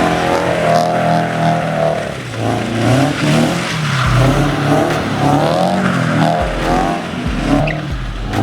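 Car engine revving hard, its pitch rising and falling over and over.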